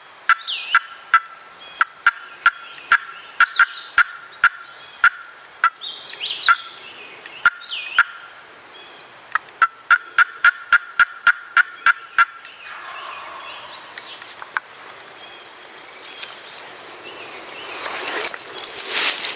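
Turkey calling: a long series of sharp clucks, running into fast cutting between about ten and twelve seconds in, with a few higher calls between them. A rustling noise swells near the end.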